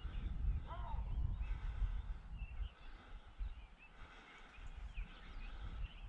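Wild birds chirping and calling in short, varied phrases, with one louder arching call about a second in. A low wind rumble on the microphone in the first half that eases off after about three seconds.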